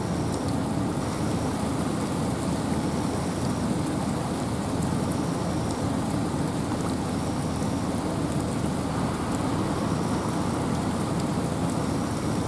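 Steady wind and rain in a forest: a dense, even hiss weighted to the low end, with scattered faint drop ticks.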